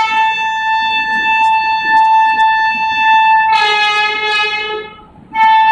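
Train horn sounding long blasts: one steady blast of about three and a half seconds turns into a fuller, lower chord for about a second, breaks off briefly, then sounds again near the end.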